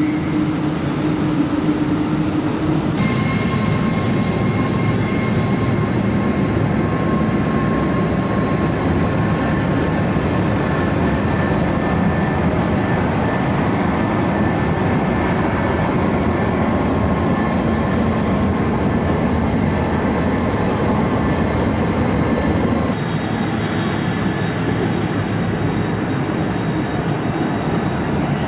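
Jet airliner engines running: a steady dense noise with high whining tones over it. The sound changes abruptly about three seconds in and again near the end.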